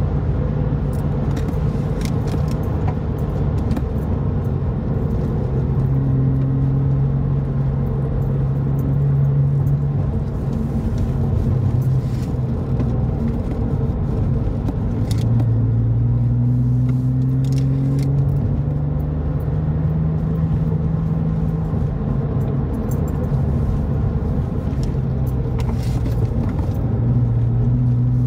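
2002 Porsche 911 (996.2) Cabriolet's flat-six engine and tyre rumble heard from inside the car, the engine note climbing and dropping as the driver works the throttle and the Tiptronic changes gear. A few light clicks or rattles come now and then.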